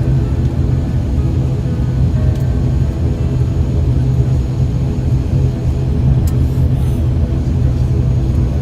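Steady airliner cabin noise after landing: a constant low rumble and hum of the aircraft's engines running at low power while it rolls to the gate.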